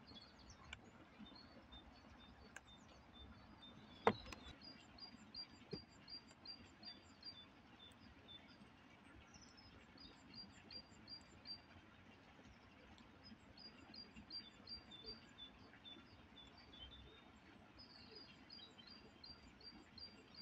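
Songbirds singing: runs of quick, high chirping notes, about four a second, repeated several times over a quiet outdoor background. One sharp knock about four seconds in.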